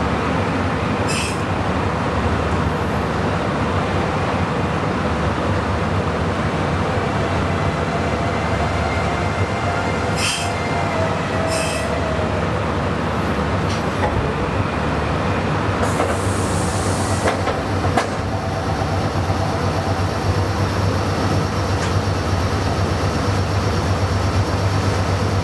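Meitetsu 9500-series electric train heard from inside the driver's cab, running in along a station platform and braking to a stop, with wheel and track noise and a few sharp clicks. Once stopped it stands with a steady hum from its onboard equipment, and a short hiss comes about two-thirds of the way through.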